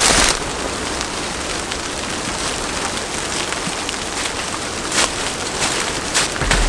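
Steady rain falling, with a few brief sharper taps among the patter.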